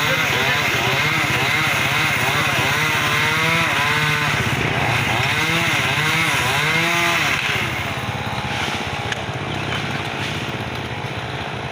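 Chainsaw running while a tree branch is cut, its pitch rising and falling over and over as the engine revs. About seven and a half seconds in it drops quieter and steadier.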